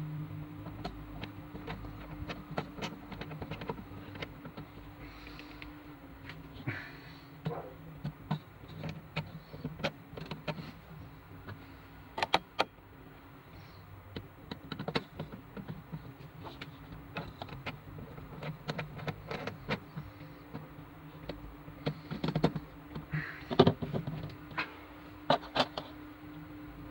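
Irregular sharp clicks and light knocks of small parts being handled, loudest about halfway through and again near the end, over a steady low hum.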